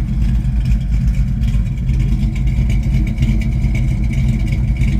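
1972 Ford Mustang Mach 1's V8 idling steadily through Super 10 mufflers, a deep even burble with no revving.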